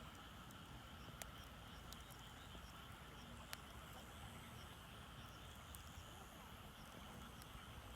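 Wood fire burning in a shichirin charcoal grill, giving a few scattered sharp crackles and pops, the loudest about three and a half seconds in, over a faint steady background.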